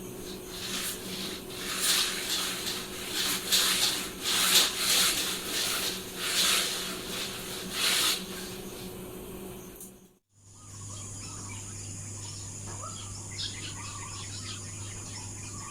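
Outdoor ambience. For about ten seconds a rushing noise swells and fades every second or so. After a short break come faint bird chirps over a steady high insect drone.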